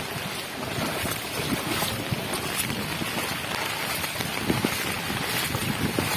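Wind buffeting the microphone in irregular low gusts, over a steady hiss.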